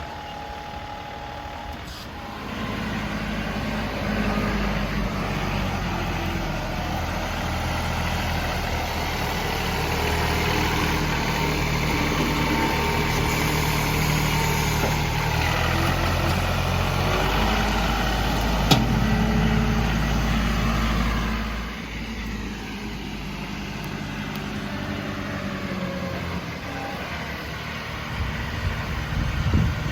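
John Deere 2038R compact tractor's three-cylinder diesel engine running. It comes up under load about two seconds in and eases back to a lower, steadier run about twenty-one seconds in, with one sharp clank a little before that.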